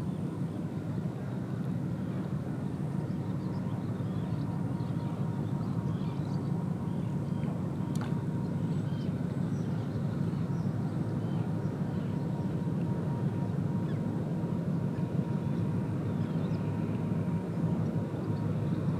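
Steady low engine rumble, with faint bird calls and one sharp click about eight seconds in.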